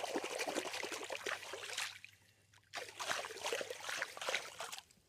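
Catfish thrashing in shallow water, two bursts of splashing: one over the first two seconds and another from about three seconds in to near the end.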